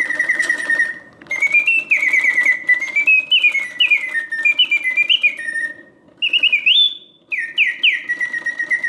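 Vintage Karl Griesbaum double singing birdcage automaton singing: its bellows-driven whistle warbles a birdsong of rapid trills and rising and falling notes, broken by short pauses, over the faint hum of the mechanism. It is a strong, full song with the proper oscillating notes, the sign of a freshly serviced mechanism and bellows in good working order.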